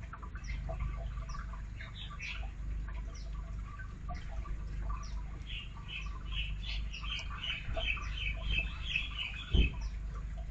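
Magpie-robin singing: a string of short, falling whistled notes, turning into a fast run of chirps in the second half. A low rumble continues underneath, and there is a brief thump near the end.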